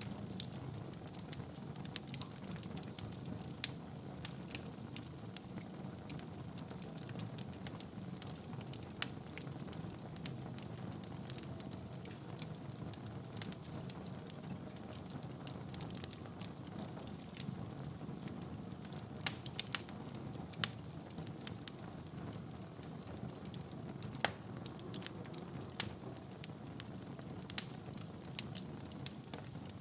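Wood fire burning in a fireplace: a steady low rumble of flames with irregular sharp crackles and pops, several in quick succession about two-thirds of the way through.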